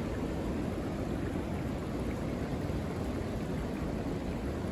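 Steady rushing noise of strong wind gusting through tall trees and over the microphone, blended with a rain-swollen creek running high.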